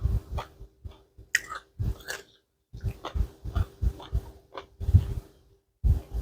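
A person chewing food close to the microphone, about three chews a second, with two short pauses.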